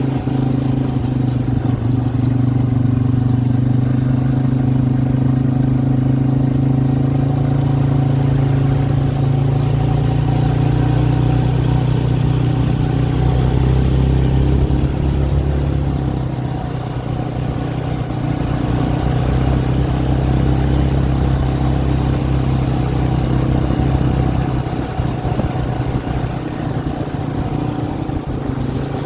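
An engine running steadily for the whole stretch, a low hum that shifts slightly in pitch and eases off a little now and then.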